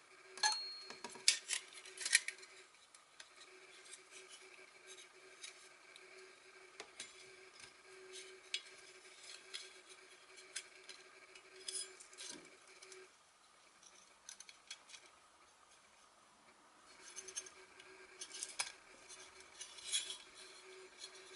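Light metallic clinks and rattles from small stainless steel parts being handled, scattered and irregular, louder in the first two seconds and again near the end.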